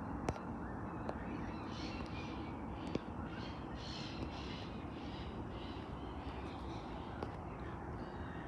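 Birds calling over and over in short bursts above a steady outdoor rumble, with a couple of sharp clicks, about a third of a second and three seconds in.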